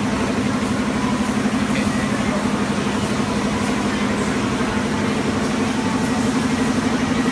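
Continuous vacuum band sealer running, with a steady motor and pump hum over a noisy hiss.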